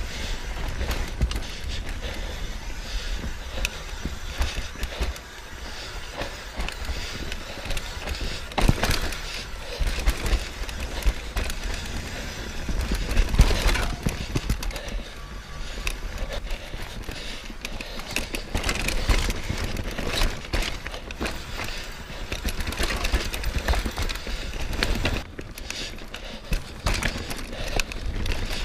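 Mountain bike descending a rocky trail, heard from a camera mounted on the bike or rider: tyres running over rock and dirt, with constant clicks and rattles from the bike over bumps and wind rumbling on the microphone.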